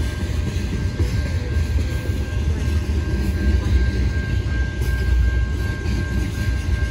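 Freight train of tank cars rolling past: a steady low rumble of steel wheels on the rails, with a thin steady high tone running through it.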